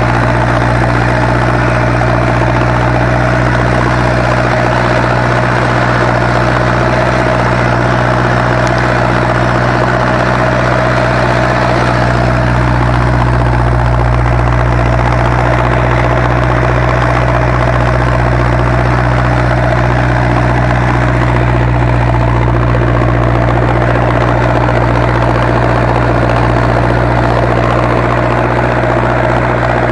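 Zetor 7245 tractor's four-cylinder diesel engine running steadily under load while ploughing.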